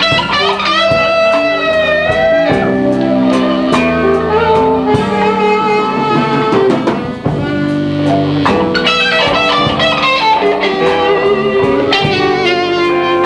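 A blues band playing live, with guitar leading over drums.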